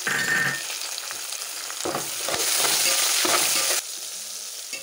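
Tomatoes, onions and whole spices sizzling in hot oil in a metal pot, stirred with a metal spatula that scrapes against the pot. The sizzle swells louder for about a second and a half in the middle.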